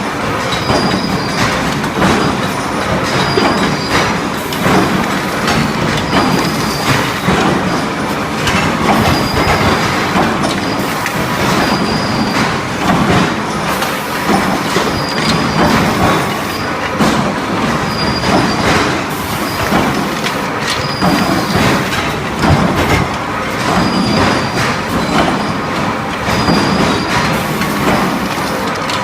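An automatic induction rod-heating line running: a steady metallic clatter and rattle of steel rods being fed through the machinery. A short high tone comes back about every two seconds, in step with the line's feeding cycle.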